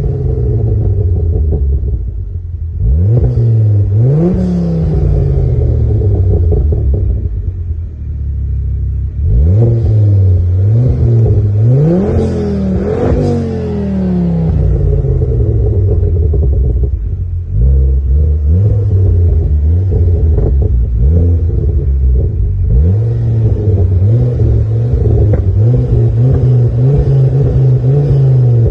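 2005 Ford Focus ST with its stock exhaust, revved several times: the exhaust note climbs quickly and drops back slowly, with a quick run of rising revs in the middle. It then runs at a steady, slightly wavering speed.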